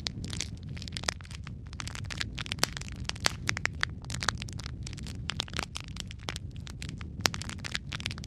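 Wood fire burning in a fireplace, with dense, irregular crackles and sharp pops from the logs over a steady low rumble of the flames.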